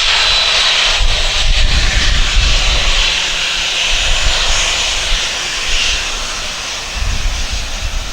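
Jet airliner engines running loud and steady, a continuous rushing roar strongest in the upper-middle range, over an uneven low rumble.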